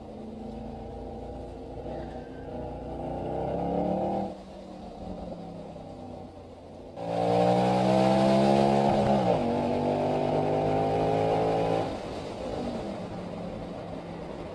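Mercedes-Benz SL63 AMG V8 heard from inside the cabin, pulling under throttle with rising pitch, then easing off about four seconds in. About seven seconds in it opens up sharply and gets much louder, with a brief dip near nine seconds like a gear change, then settles back to a quieter cruise near twelve seconds.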